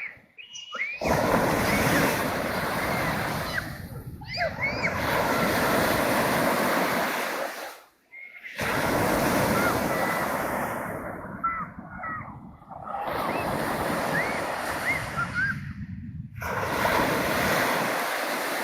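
Black Sea surf washing on the shore: a loud, steady rush of breaking waves. It drops out abruptly to near silence twice, just after the start and about 8 seconds in.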